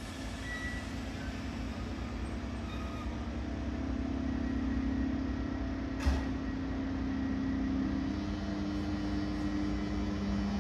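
Electric train running, a steady hum that grows louder, its pitch shifting about eight seconds in, with one sharp click about six seconds in.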